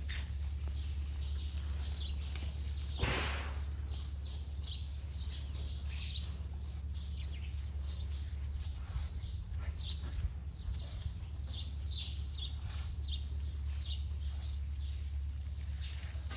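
Small birds chirping over and over, over a steady low hum, with a brief louder rush of noise about three seconds in.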